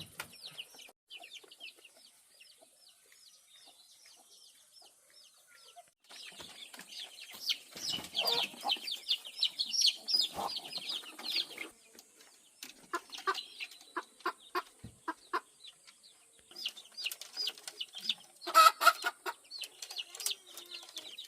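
Chickens clucking and peeping in many short calls, busier and louder around the middle, with a loud sudden burst a couple of seconds before the end.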